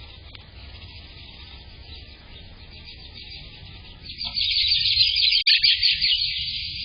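A bird singing close to the microphone: a loud, rapid, high-pitched song that starts about four seconds in, over faint background noise.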